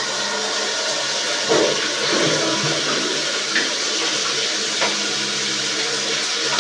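Steady rush of running water with a low, even hum beneath it and a few faint knocks.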